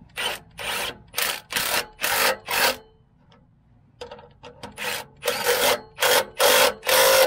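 Rhythmic rasping strokes of a hand tool worked back and forth: two runs of about six quick strokes, with a pause of about a second and a half between them.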